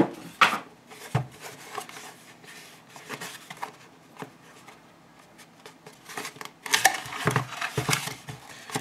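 Handling of a boxed gadget and its packaging: scattered small clicks and taps with light rustling, busier and louder in the last couple of seconds.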